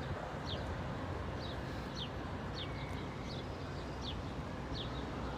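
A small bird chirping repeatedly, short high falling notes about once a second, over a steady low outdoor background hum.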